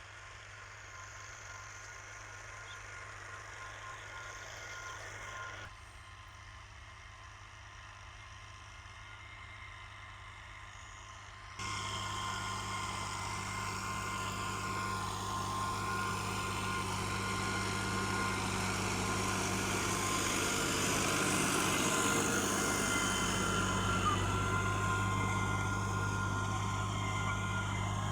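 New Holland Al-Ghazi farm tractor's diesel engine running steadily: a constant low hum with a thin high-pitched whine over it. The sound changes abruptly about six and twelve seconds in and is louder after the second change.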